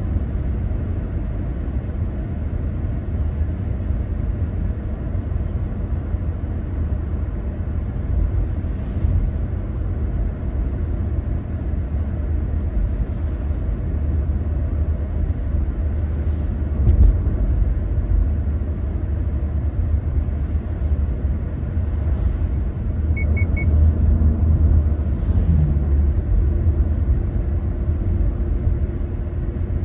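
Steady low rumble of a car driving along the road. About three-quarters of the way through come three short, quick high beeps.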